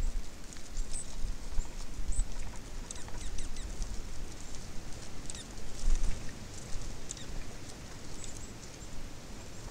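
Birds at a feeder chirping: many short, high calls scattered throughout, over an irregular low rumble.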